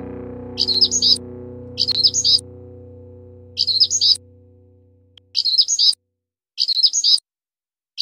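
A small bird chirping in five short phrases of quick high notes, about one every second and a half. Under the first phrases, the last chord of a music track fades out by about five seconds in.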